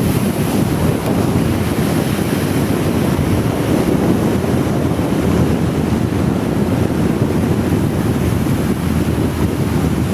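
Steady, loud rushing of wind buffeting the microphone on a moving motorcycle, mixed with the hiss of heavy rain.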